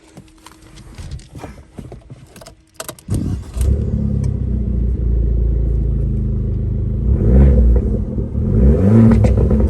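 The Abarth 595's 1.4-litre turbocharged four-cylinder engine, fitted with a sports exhaust, starting suddenly about three seconds in after a few quiet clicks. It settles into a steady, loud run and is then revved twice, rising and falling in pitch each time.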